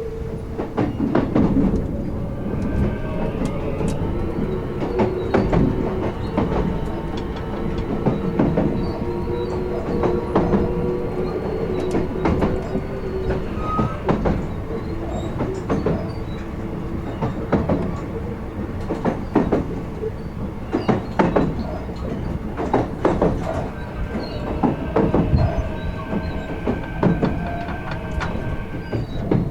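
Running sound inside a Kintetsu 16600-series electric multiple unit at the car end: the wheels click rhythmically over the joints of standard-length jointed rail above a steady rumble. Steady whining tones from the Hitachi-controlled traction equipment come in for a while near the start and again near the end.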